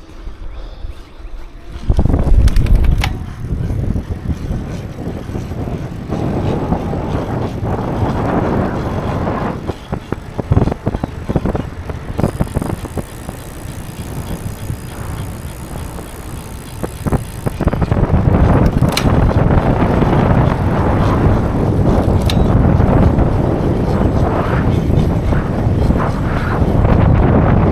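Bicycle being ridden on the road: tyre rumble and wind buffeting the microphone, rising and falling, with a few sharp clicks.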